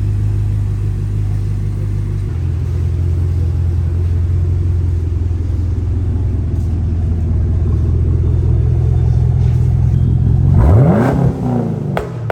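Engine idling with a steady low drone, then a single sharp rev near the end that rises and falls in pitch within about a second, followed by a brief click.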